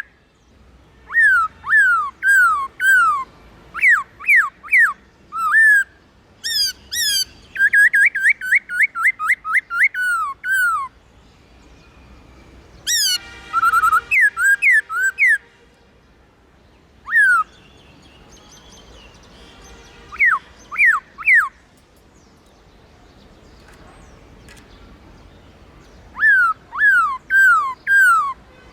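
Black-throated laughingthrush singing: loud phrases of rapid, falling whistled notes, each phrase a run of several similar notes, with pauses of a few seconds between phrases. About halfway through there is a harsher, buzzier call among the whistles.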